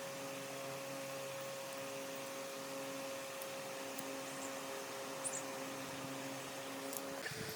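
Steady machine hum: an electric motor running evenly with a constant drone and hiss, changing abruptly near the end.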